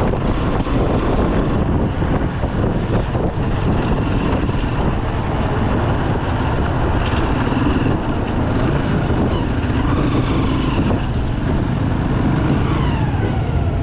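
Single-cylinder Bajaj Pulsar 200 motorcycle running on the move, with wind rushing over the microphone and the engines of surrounding traffic. Near the end a tone sweeps downward.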